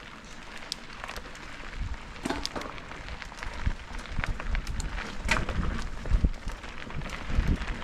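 Tyres rolling over a rough dirt trail, with scattered clicks, rattles and knocks, and wind rumbling on the microphone from about two seconds in.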